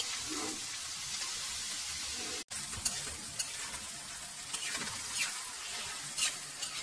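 Fresh alamang (tiny shrimp) and pork sizzling in a stainless steel wok while being stirred and turned with a spatula. There is a short break about two and a half seconds in, then several separate scrapes of the spatula against the pan.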